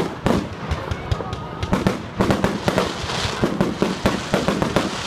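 Fireworks going off in a fast run of sharp bangs and crackles, the bursts packed closest together from about two seconds in.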